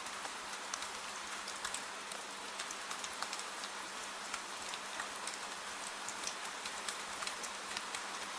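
Steady gentle rain falling, an even hiss with many small drops ticking out of it.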